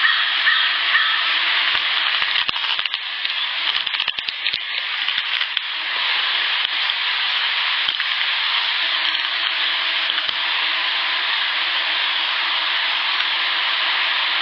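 Insect buzzing close to an outdoor field recorder: a steady, noisy drone with a faint low hum under it, and a cluster of clicks and taps about two to five seconds in. The recordist takes the insect for an unknown one, not a natural Michigan bug.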